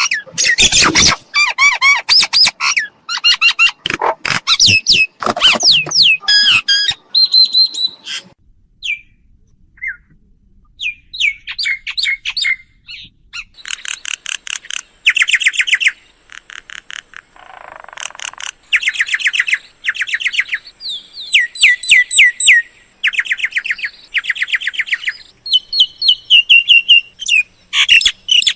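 Recorded myna calls played as a bird lure: a varied mix of whistles, squawks and chattering, then fast runs of repeated notes after a short lull, with a brief harsh rasp partway through.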